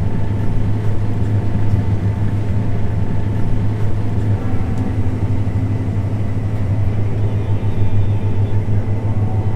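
John Deere S690 combine harvester running, heard from inside its cab as a steady low drone.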